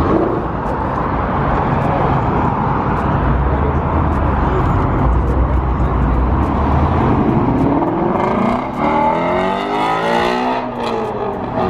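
V8 muscle car engine with a deep, steady rumble, then revving hard in the last few seconds, its pitch rising and falling as it accelerates past.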